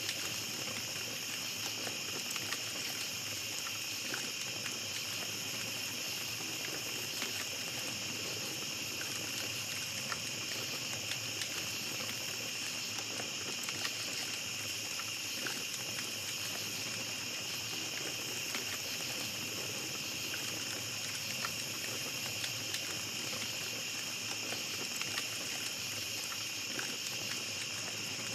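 Small campfire crackling with scattered light pops over a steady high chirring of night insects.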